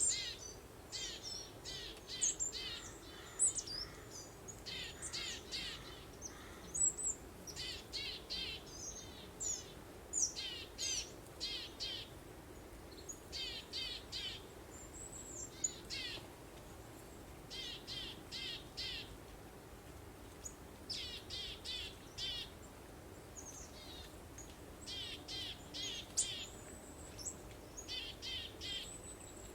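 Songbirds chirping in short, quick runs of high notes, one run after another, over a soft steady breeze.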